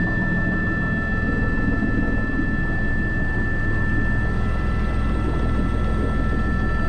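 Airbus H125 (AS350 B3) single-turboshaft helicopter in flight, heard from the cockpit: a steady low rotor and engine noise with a constant high turbine whine above it.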